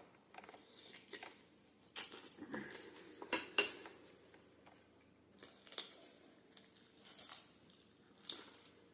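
Cutlery clinking and scraping against a soup bowl in scattered light taps, the loudest pair about three and a half seconds in.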